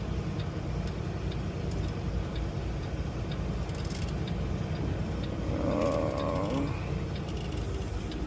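Semi-truck engine droning steadily in the cab while the turn signal ticks at an even pace, as the truck moves to pull off into a chain-up spot. A brief higher-pitched squeal comes about six seconds in.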